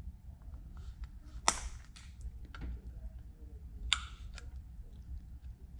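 Cutters snipping off the ends of a stainless steel split pin: two sharp snips about two and a half seconds apart, with small handling clicks between them.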